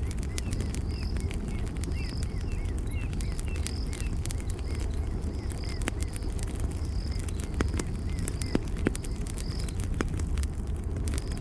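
Campfire crackling with frequent sharp pops over a steady low rumble of burning wood. Short high chirps repeat about twice a second throughout, and quick hooked bird-like chirps come in a run near the start and again past the middle.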